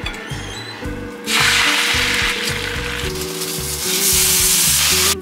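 Food sizzling in a frying pan: a loud, even hiss that starts about a second in and cuts off just before the end, over background music.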